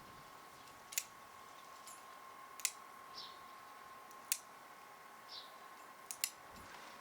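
Nail clippers snipping a cat's claws: five sharp clicks, spaced about a second and a half apart, with the last two close together, over a faint steady high tone.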